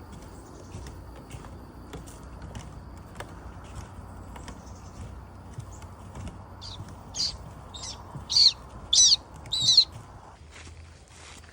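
A bird calling: a run of six or seven loud, high chirps, each bending down in pitch, in the second half. Under it is a faint steady hiss that stops near the end.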